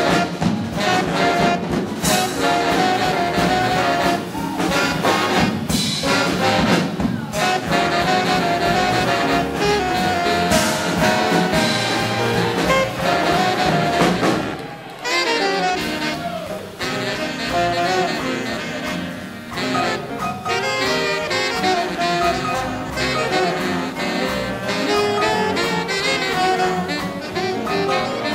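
Big band playing hot swing jazz live, saxophones and brass over a steady drum beat, with a short drop in the ensemble about halfway through.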